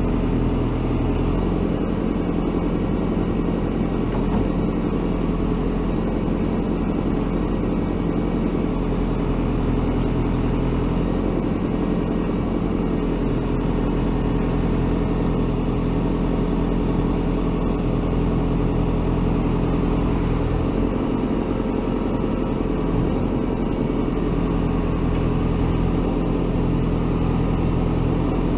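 Diesel engine of a heavy construction machine running steadily at a constant load, with a slight change in its note about a second in and again around twenty seconds in.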